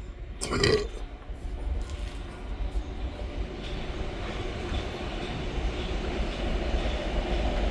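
A passing train's rumble, growing steadily louder, with a sharp knock about half a second in.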